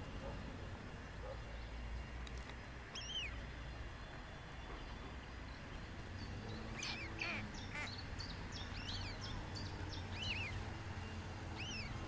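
Short high-pitched bird calls: a single arched chirp about three seconds in, a busier run of chirps from about seven to ten seconds, and two more near the end, over a steady low background rumble.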